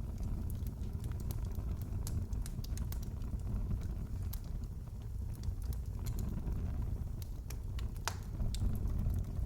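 Wood fire in a fireplace crackling: a steady low rumble of burning with irregular sharp pops and snaps, one louder pop near the end.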